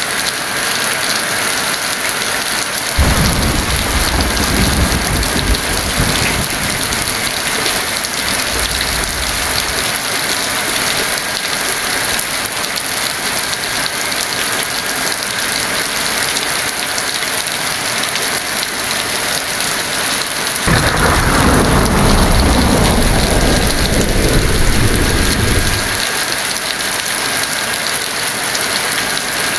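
Steady heavy rain with two rolls of thunder: one about three seconds in that rumbles on for several seconds, and a louder one about two-thirds of the way through that starts sharply and sinks into a low rumble over about five seconds.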